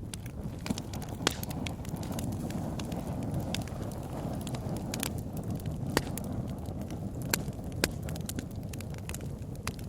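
Wood bonfire crackling: irregular sharp pops and snaps over a steady low rush, with the loudest pops about a second in, around six seconds and near eight seconds.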